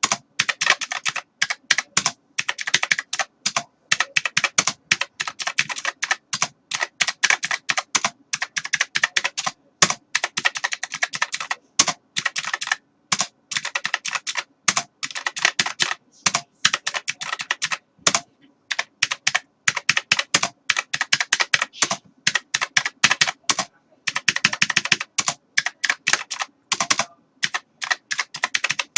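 Typing on a computer keyboard: rapid, irregular key clicks in flurries with brief pauses between them.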